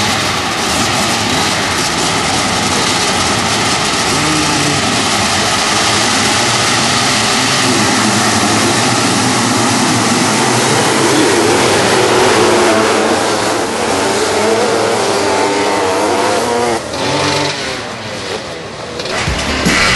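Several 500cc two-stroke motocross bikes racing, engines revving up and down in overlapping waves. The sound dips briefly near the end before surging loud again.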